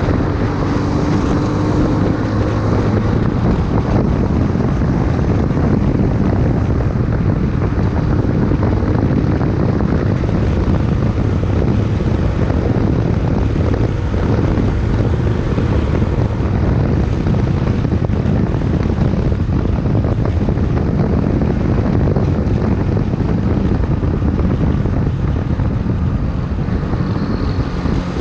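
Honda CBX 250 Twister's single-cylinder four-stroke engine running at a steady engine speed, with wind noise on the microphone.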